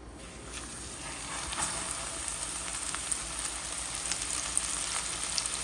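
Flour-coated fish frying in hot oil: a sizzle with scattered crackles that sets in as the fish goes into the oil and grows steadily louder.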